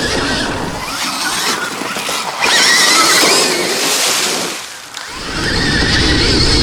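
Stark Varg electric dirt bike being ridden hard on dirt: motor whine with chain and knobby-tyre noise. It surges about two and a half seconds in, eases off briefly near five seconds, then picks up again.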